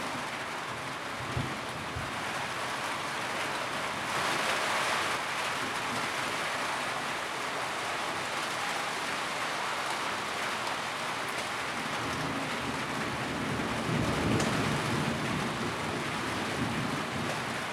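Steady rain falling on a tin roof, an even patter, swelling briefly about four seconds in. A low rumble builds and fades from about twelve to sixteen seconds in.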